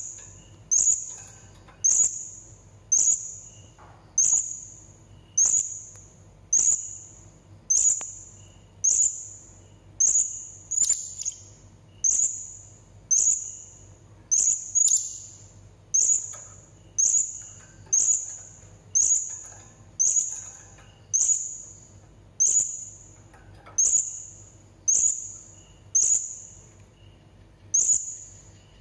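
Blue-crowned hanging parrot (serindit) giving short, sharp, high-pitched calls, one about every second in a steady, even series.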